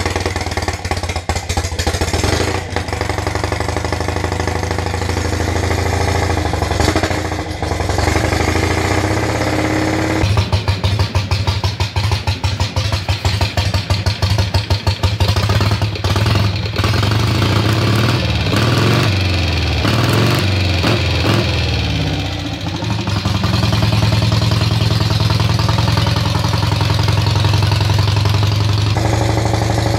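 Engine of a home-built Donnet-Zedel prototype car running on choke just after a cold start, after standing unused for several days. It runs steadily, turns rougher about a third of the way in, and the revs rise and fall a few times before it settles into a steady idle.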